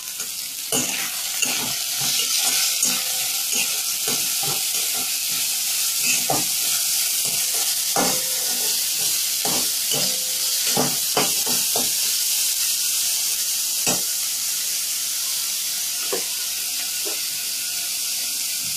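Chopped onions and carrots sizzling in hot oil in a kadai, a steady hiss, with a spatula scraping and knocking against the pan at irregular moments as they are stirred.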